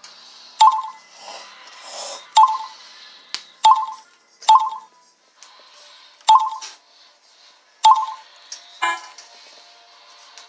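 A series of short, sharp pings with a ringing pitch, about seven of them at uneven intervals of one to two seconds.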